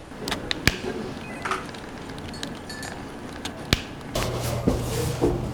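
Scattered sharp clicks and knocks, then a low steady hum that comes in about four seconds in.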